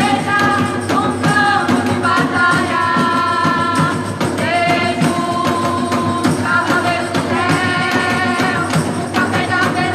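Christian worship band playing a song: a steady beat under long held melody notes, with singing.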